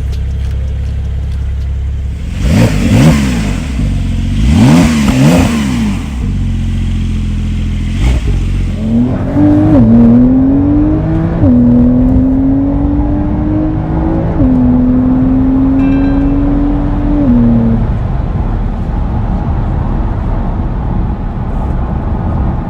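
Porsche 992 flat-six engine: a steady low note, then two quick revs that rise and fall a few seconds in. It then goes into hard acceleration, the pitch climbing and dropping back at each of several quick gear upshifts before settling to a steady drone near the end.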